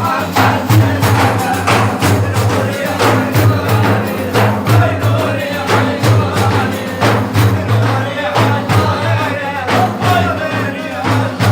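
Devotional praise singing (madih) over frame drums struck in a steady beat, with a low sustained drone underneath.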